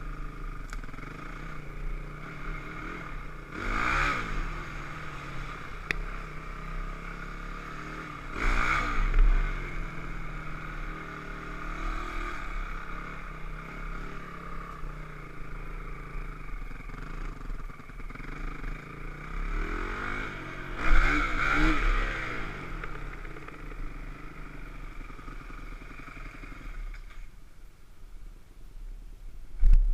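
Dirt bike engine running, with the revs climbing and falling away three times in loud swells between steadier stretches. The engine fades near the end, and a single sharp knock comes just before the close.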